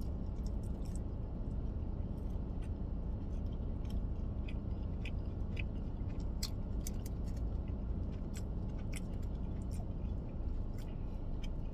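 A person chewing a mouthful of barbecue rib tips, with many small wet clicks and smacks scattered through, over a steady low hum.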